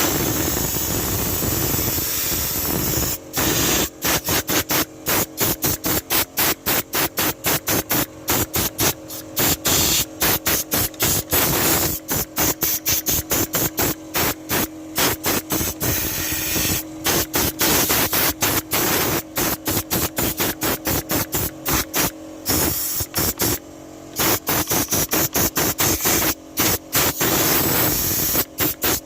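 A hissing jet of pressurised air or spray, switched on and off in many rapid short bursts with a few longer blasts, blowing dirt out of a car's air-conditioning blower. A faint steady hum runs underneath.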